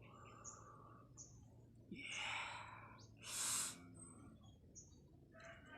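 A person's breathy exhale about two seconds in, followed a second later by a louder, sharp hissing breath. Faint, short bird chirps sound now and then.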